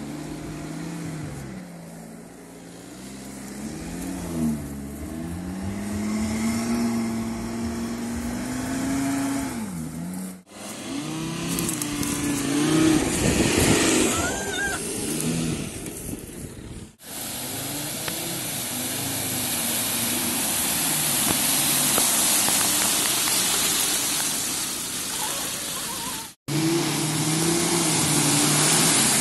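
Volkswagen Touareg SUV driving off-road in sand and mud, its engine revving up and down as it climbs and the wheels work for grip, in several clips cut together with abrupt breaks. In the middle is a long steady hiss with the engine faint beneath it, and near the end the engine revs again as the car ploughs through a muddy puddle.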